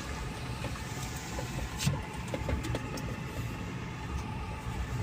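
Small electric car driving on a test drive: a steady low rumble of tyre and road noise with no engine note, and one sharp click about two seconds in.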